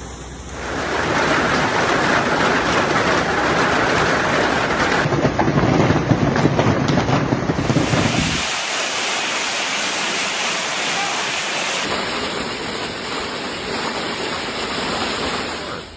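Heavy rain, a steady rushing hiss, its tone changing abruptly about five, eight and twelve seconds in.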